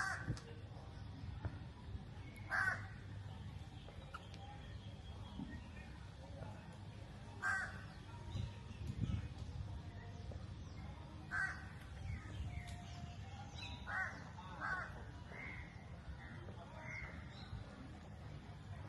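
A bird giving short, harsh calls every few seconds, sometimes two in quick succession, over a low background rumble.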